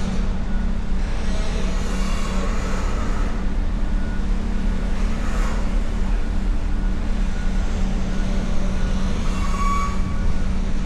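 Road vehicles moving at a car ferry: a steady low engine drone, with vehicles passing about two, five and ten seconds in.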